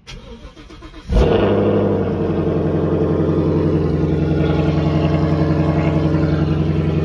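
Car engine started cold: about a second of starter cranking, then the engine catches suddenly about a second in and settles into a loud, steady idle.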